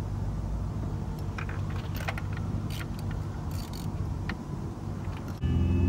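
Light metallic clinks and rattles, like tools or parts being handled, over a steady low car-engine hum. Near the end the sound cuts abruptly to a louder, steadier hum.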